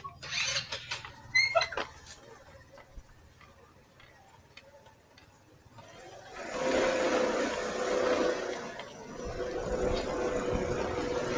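Motor vehicle running, coming in about six seconds in as a loud noisy hum with a steady whine.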